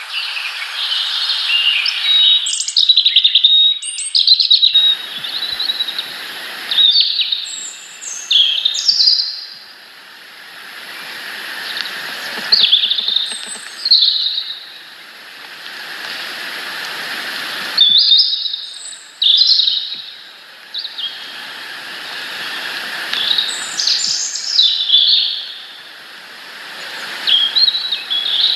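Small garden songbirds calling: many short chirps and quick sweeping notes in clusters throughout, over a background hiss that swells and fades.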